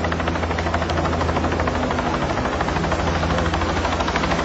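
Helicopter running steadily close by, its rotor making a fast, even chop over a low engine hum.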